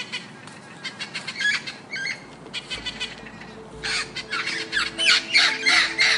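Birds squawking in a rapid series of short, harsh calls, busier and louder in the second half. Steady held musical tones come in about halfway.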